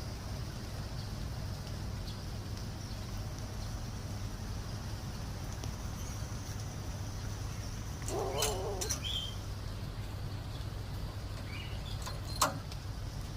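A steady low hum, with a short wavering animal call about eight seconds in, a few faint high bird chirps after it, and a sharp click near the end.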